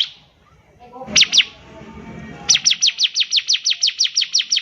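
Bar-winged prinia (ciblek) singing: two quick high notes that sweep downward, then a fast, even run of about six descending notes a second.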